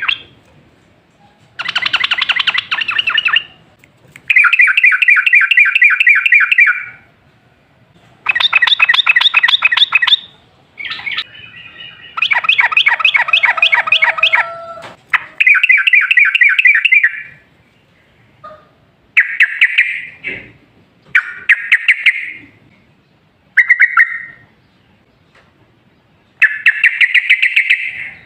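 Yellow-vented bulbul singing in rapid bubbling chattering phrases, about ten of them, each one to three seconds long with short pauses between. The later phrases are shorter.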